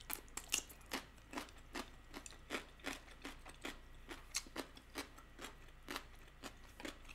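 A person chewing pickled radish with the mouth close to the microphone: a run of crisp crunches, about three a second.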